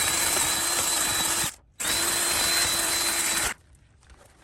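Battery-operated drill spinning a wire brush against an engine piston to clean it: a steady motor whine that stops briefly about a second and a half in, runs again, and stops near the end.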